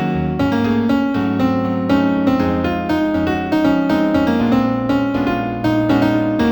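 New-age piano piece in D minor: a steady flow of melody notes over low held bass notes.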